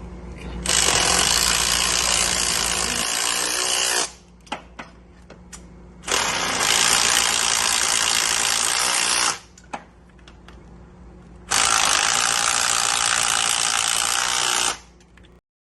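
Power tool run in three bursts of about three seconds each, with short quiet pauses between, as fasteners are driven during an engine install.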